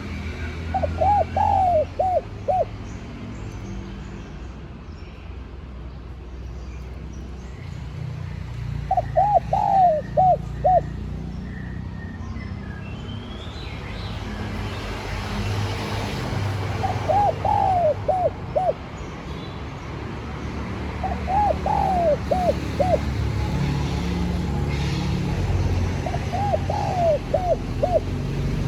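Spotted dove cooing: five phrases of several quick coos each, a few seconds apart, over a steady low rumble.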